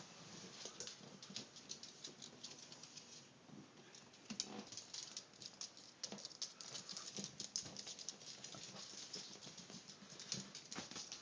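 Light, irregular clicking and tapping of small animals' claws and feet as a Yorkshire terrier and a Bronze-winged Pionus parrot scurry about, several taps a second, a little busier near the end.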